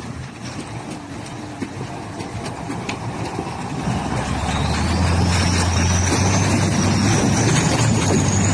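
KrAZ timber truck's diesel engine running, growing louder about halfway through, with a thin high whine that rises in pitch near the end.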